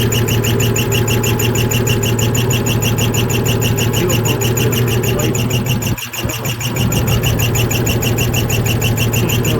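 1966 Ford F100 engine idling with a squealing drive belt: a high, fast, evenly repeating chirp several times a second over the engine's steady running. The owner takes it for a worn belt that is due for replacement, or possibly a squeaky alternator. The sound dips briefly about six seconds in.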